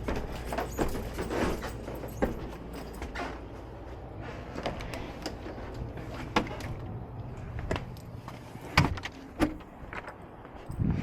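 Scattered clicks, knocks and rattles of tools being handled, over the steady low hum of a running gas furnace. The hum fades about two-thirds of the way through.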